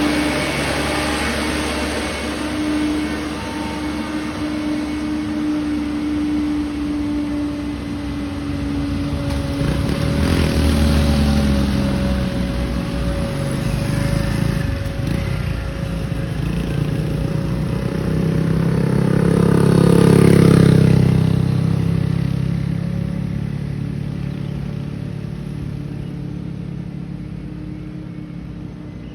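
Loaded truck's diesel engine pulling hard up a steep incline. It grows louder as the truck approaches, is loudest about twenty seconds in as it passes, then fades away.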